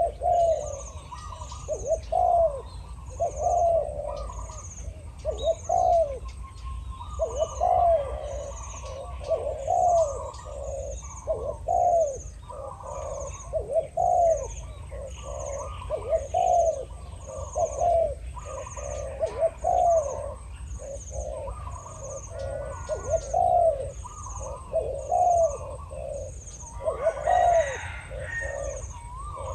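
Spotted doves cooing back and forth, a decoy and a wild bird with a deep voice, short low coo phrases repeated about once a second.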